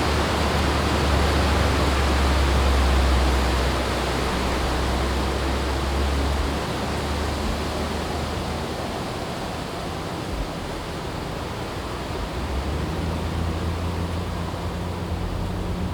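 Strong wind gusting through the forest trees, with a heavy low rumble of wind on the microphone that eases about six seconds in. A low steady hum comes in near the end.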